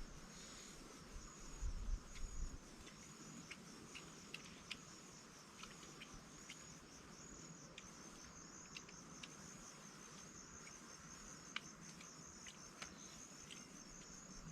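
Insects, crickets or similar, chirring steadily and high-pitched in a pulsing pattern. Faint scattered clicks run through it, and a few low thumps come about two seconds in.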